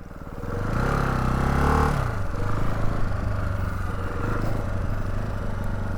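Motorcycle engine running with the revs changing for the first couple of seconds, then settling into a steady low-rev run as the bike pulls over.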